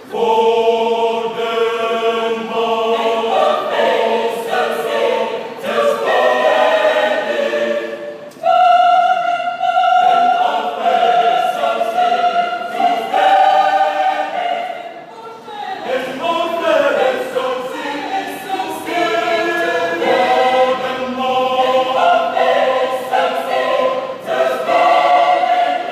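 Choir singing in several voice parts, holding sustained chords, with a brief break about eight seconds in before the next phrase.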